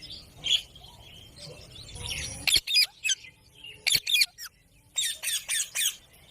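Ringneck parakeet squawking in short, high-pitched calls: a few sharp calls in the middle, then a quick run of about five calls in a second near the end.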